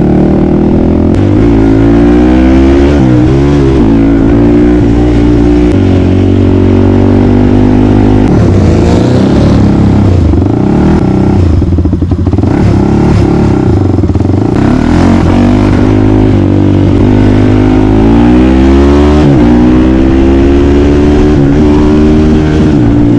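Small off-road vehicle engine running hard and revving, its pitch rising and falling repeatedly with throttle and gear changes.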